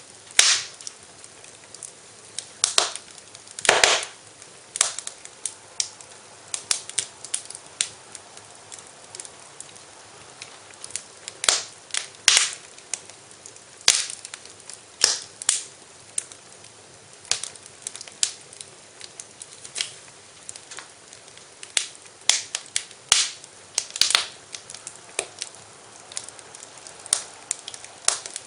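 Wood fire in a fireplace crackling: irregular sharp pops and snaps, a few louder than the rest, over a faint steady hiss.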